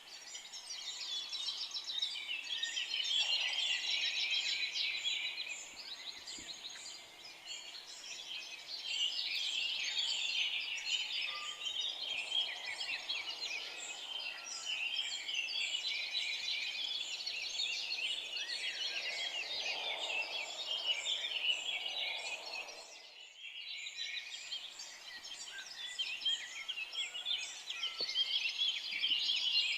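A dense chorus of many forest songbirds chirping and singing over one another, with a short break to near silence about 23 seconds in.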